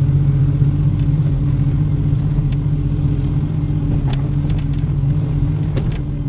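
Excavator's diesel engine running steadily with a low hum, with a few faint knocks from the machine's work about two and a half, four and six seconds in.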